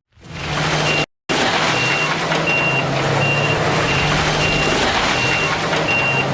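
Backup alarm on heavy machinery beeping about once every 0.7 seconds over a running engine and the rumble of working equipment. The sound drops out briefly about a second in.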